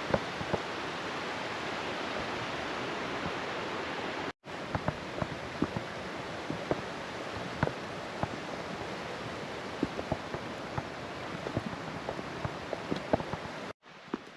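Steady rush of a mountain stream, with scattered sharp clicks over it. The sound cuts out briefly twice, about four seconds in and near the end.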